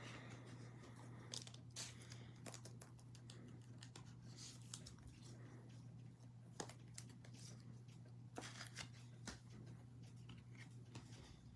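Faint rustling, crinkling and light clicks of baseball cards and pack wrappers being handled and torn open, over a steady low electrical hum.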